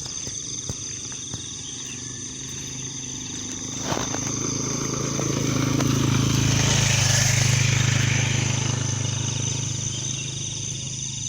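A truck's engine running at low speed as the truck drives slowly past, growing louder to a peak about seven seconds in and then fading. Insects chirr steadily in the background.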